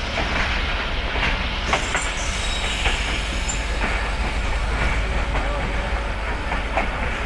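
Steady low rumble and hum of a standing passenger train at a station platform, with occasional short clicks and clanks.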